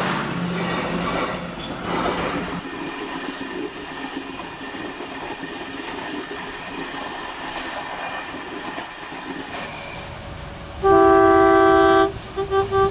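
A train running on the rails, with an engine hum that fades in the first couple of seconds. About eleven seconds in, a train horn sounds a loud chord for about a second, followed by two short toots.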